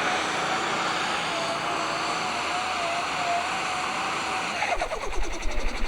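Super stock pulling tractor's engine running steadily with a wavering whine over it. About three-quarters of the way through, a low rumble with a rapid flutter comes in.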